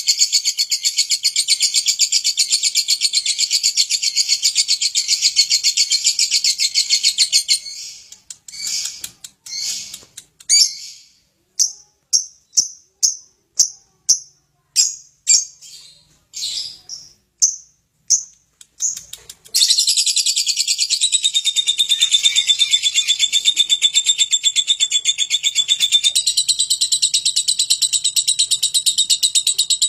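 Lovebird giving its long, rapid chattering trill (ngekek). About seven seconds in it breaks into a string of short separate chirps, then goes back into the continuous trill for the last ten seconds.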